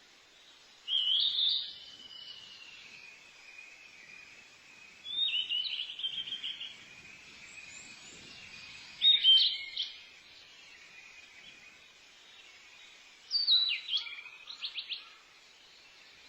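A songbird singing short, chirping phrases, four of them spaced about four seconds apart, each with quick sweeps and rapid trills. A faint steady high drone lies underneath.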